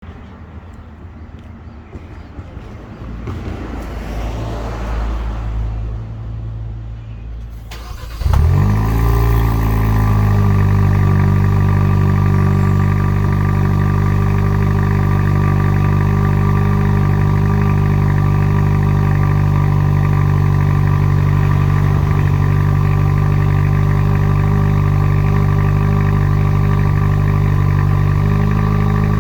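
Kia Forte GT's turbocharged 1.6-litre four-cylinder engine with stock exhaust starting from cold about eight seconds in: it catches with a brief flare, then settles into a steady fast cold idle. Before the start there is only fainter background noise.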